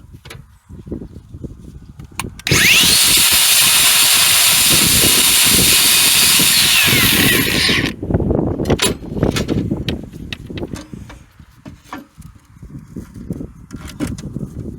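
Handheld power tool run for about five seconds against metal with a harsh, steady hiss, scouring the spot bare of corrosion so the ground cable can make a good connection. It starts and stops suddenly, with irregular knocks and clatter of handling around it.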